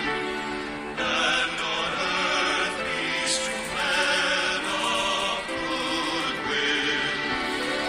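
Choir singing held notes over accompaniment, the chords changing every second or so.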